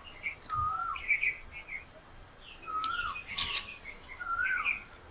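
A bird calling repeatedly: three short whistled notes, each rising then falling, about every second and a half to two seconds, with softer higher chirps between them. A brief rustle of leaves being folded by hand comes about three and a half seconds in.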